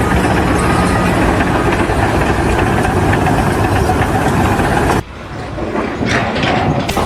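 An engine running steadily amid loud machine noise; it cuts off suddenly about five seconds in, and a quieter, different noise follows.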